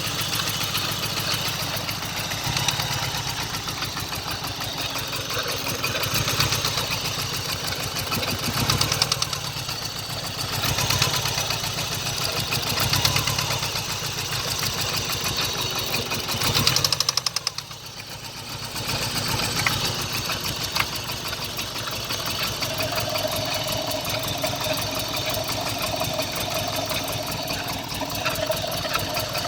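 Engine idling with a steady knock, just after its first start in over a year; the owner suspects rod knock from spun rod bearings.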